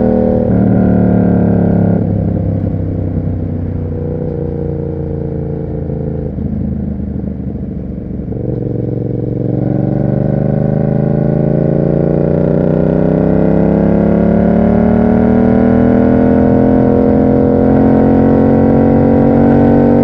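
Yamaha MT-07's parallel-twin engine through an SC Project aftermarket exhaust, under way. The revs drop back and stay low for several seconds, then climb steadily in pitch from about eight seconds in as the bike accelerates.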